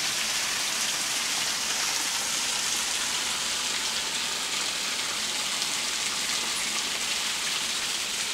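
Heavy rain pouring down, a steady dense hiss of drops on the garden and pond.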